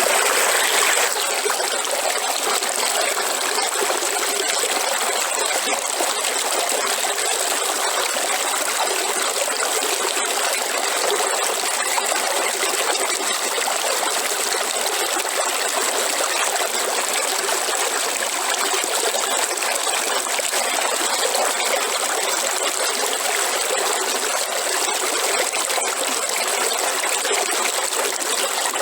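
River water flowing steadily over rocks, an even rushing, a little louder in the first second, with a thin steady high tone running above it.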